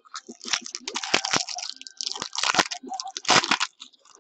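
Trading-card hobby box being opened: plastic wrapper and cardboard crinkled and torn in a run of sharp crackling bursts.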